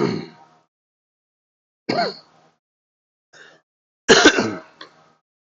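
Four short, muffled bursts of a man's voice, mumbling or humming to himself, each cut off abruptly into dead silence by a noise gate; the last, about four seconds in, is the loudest.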